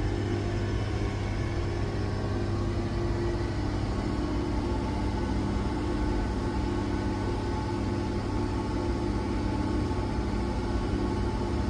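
Steady hum of a car heard from inside the cabin: engine and running noise with a few constant tones, unchanging throughout.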